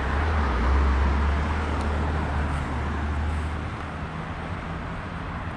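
Road traffic: a motor vehicle's engine rumbling close by, loudest at first and fading after about three and a half seconds, over steady street noise.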